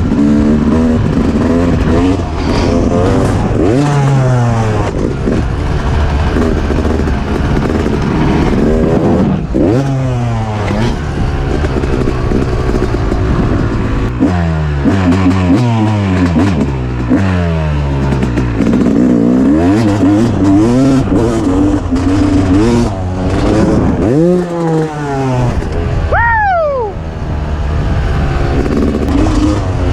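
Two-stroke dirt bike engine being ridden hard, its pitch repeatedly climbing and dropping with throttle and gear changes. A little before the end it revs up high and falls away quickly.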